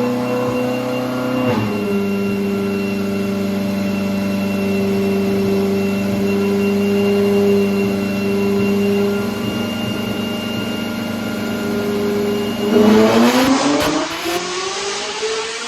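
A Ferrari 458 Italia's 4.5-litre V8, breathing through Fabspeed headers, test pipes and an aftermarket exhaust, runs hard on a chassis dyno. Its pitch steps down at a gear change about a second and a half in, then holds steady for a long stretch. Near the end a loud rasping burst comes, and the engine note climbs as it revs up.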